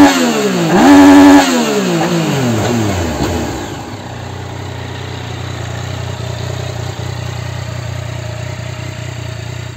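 Yamaha Niken three-wheeled motorcycle's inline three-cylinder engine revved at standstill: a sharp throttle blip right at the start and another about a second in, each rising and falling in pitch. The revs then drop away and it settles into a steady idle.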